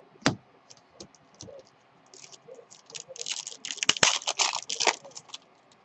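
Trading cards and their packaging being handled: a sharp click, then a dense run of crinkling and rustling in the middle, loudest near the end.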